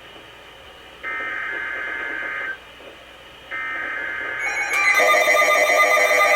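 Emergency Alert System digital data bursts over weather radio: two harsh, high-pitched warbling bursts of about a second and a half each, a second apart. About five seconds in, a louder alarm-like sound made of many stacked tones begins.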